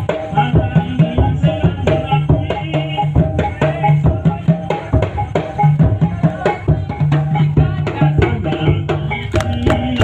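Live Javanese Topeng Ireng dance music: a steady rhythm of hand-drum strikes over sustained pitched tones.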